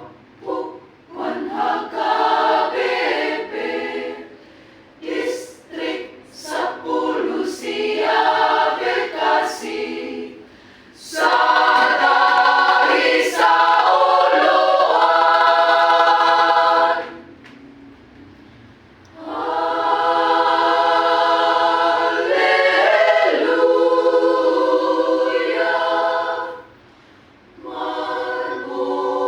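Choir singing unaccompanied in rehearsal. Short broken phrases come first, then long held chords with brief pauses between them.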